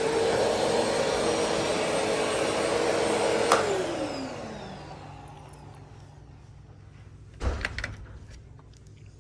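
Vacuum cleaner running, then switched off with a click about three and a half seconds in, its motor winding down in a falling whine over a couple of seconds. A short clatter follows near the end.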